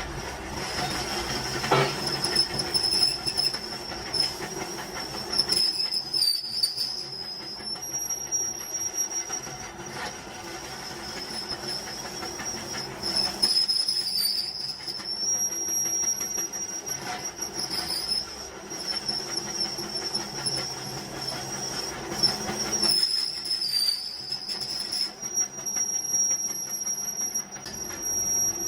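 A power tool running on metal: a steady high whine over a harsh metallic scraping. The whine dips briefly in pitch three times, about eight to ten seconds apart, as the scraping drops away.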